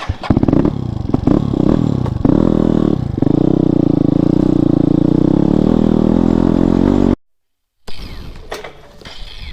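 Motorcycle engine revving hard and held at high revs for several seconds, with clattering knocks over the first few seconds. The sound cuts off suddenly about seven seconds in.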